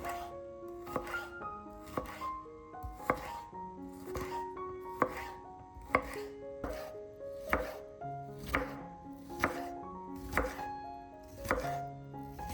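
Kitchen knife chopping vegetables on a cutting board: sharp, even chops about two a second, over soft background music.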